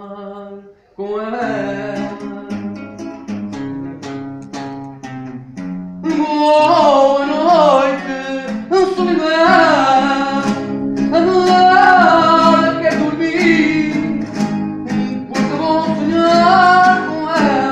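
Acoustic guitar music. Plucked guitar chords pick up after a brief pause about a second in, and from about six seconds in a louder melody line with bending notes plays over them.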